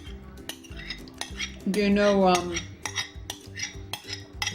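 A metal spoon clinking and scraping against a bowl over and over while eating chili. About two seconds in comes a short voiced sound that falls in pitch, the loudest thing here.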